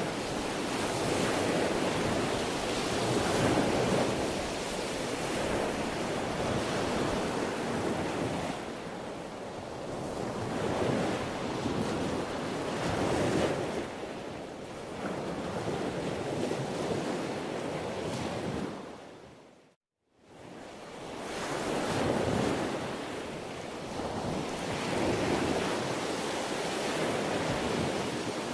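Sea waves washing onto the shore in repeated swells a few seconds apart. The sound fades out to silence for a moment about two-thirds of the way through, then fades back in.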